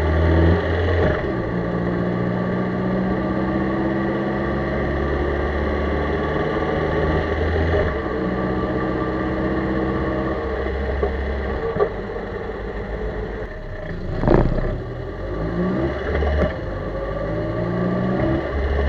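Chevrolet Corsa running while being driven, its engine tone holding steady and then shifting to a new pitch every few seconds, with a sharp knock about fourteen seconds in.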